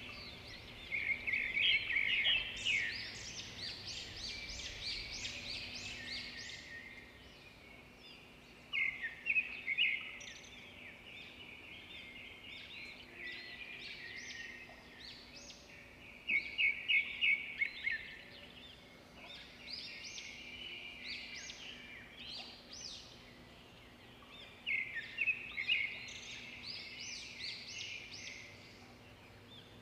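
Small birds chirping and twittering in bursts of rapid repeated high notes that come and go every few seconds.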